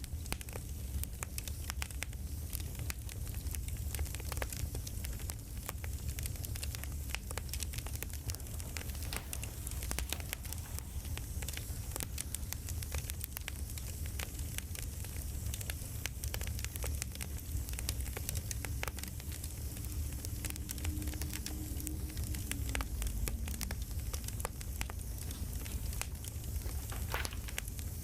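Campfire crackling: a steady low rumble of burning with frequent sharp pops and snaps scattered throughout.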